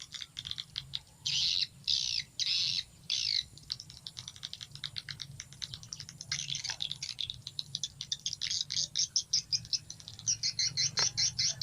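Recorded swiftlet calls played through a phone speaker as a lure sound: rapid high chirps and twitters, with a few longer, louder chirps about a second in and a quicker run of chirps near the end, over a steady low hum.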